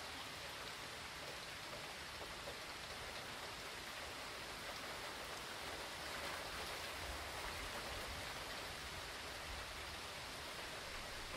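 Steady hurricane rain falling, an even hiss, swelling slightly for a few seconds in the middle.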